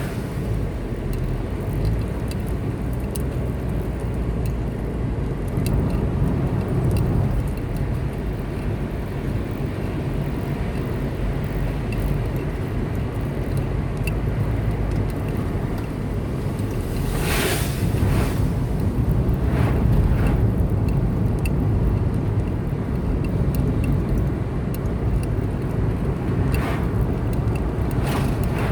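Car driving along a road: steady low rumble of engine and tyres, with a brief louder swish about two-thirds of the way through and a couple of fainter ones later.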